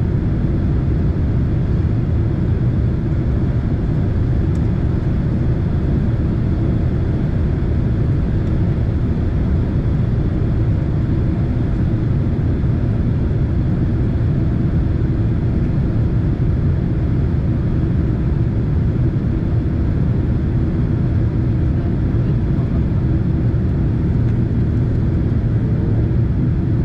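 Steady low rumble of a Boeing 767 airliner cabin, the engine and airflow noise heard from a passenger seat.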